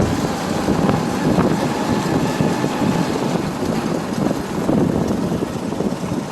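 Motorbike running at road speed, with wind rushing over the microphone.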